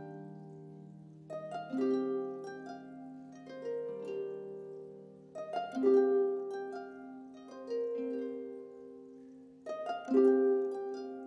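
Instrumental music on a plucked string instrument: rolled chords roughly every four seconds, each note left to ring and fade.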